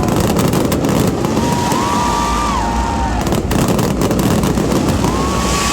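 Fireworks barrage: a continuous low rumble of bursts with many sharp crackles. Three times, a shrill whistling tone rises, holds for about a second and then drops off.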